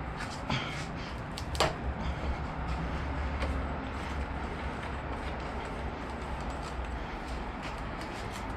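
A few light clicks and knocks of motorcycle parts being handled during disassembly, over a steady low hum.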